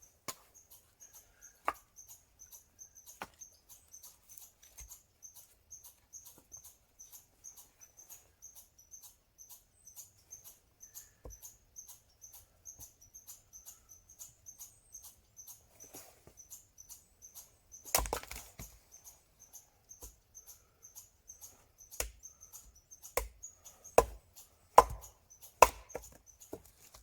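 Wood fire crackling: a faint run of quick high ticks, broken by loud sharp pops and snaps, one about two-thirds of the way in and a cluster near the end.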